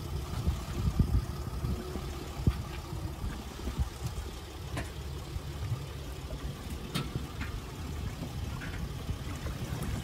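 SUV engine running low and steady as it backs a jet-ski trailer down a boat ramp into the water, with a few faint clicks.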